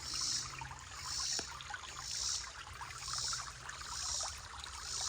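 Creek water trickling and splashing over stones, with a soft hiss that swells about once a second.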